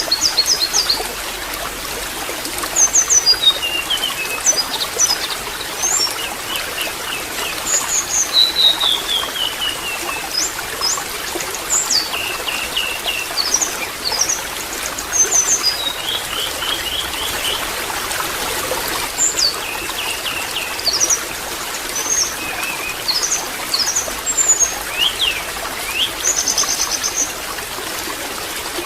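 Steady trickling water, with small birds chirping throughout in short high calls and quick descending trills.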